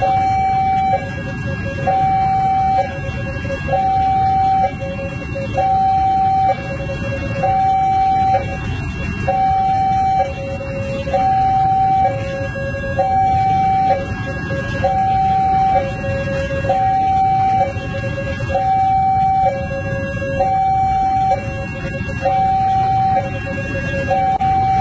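Railway level-crossing warning alarm sounding continuously, an electronic two-tone signal alternating between a higher and a lower pitch about once a second, over the low rumble of idling road traffic.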